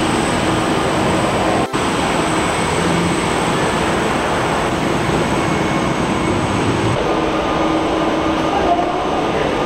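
Steady loud roar of jet aircraft on an airport apron, with a thin high whine on top, briefly cut about two seconds in.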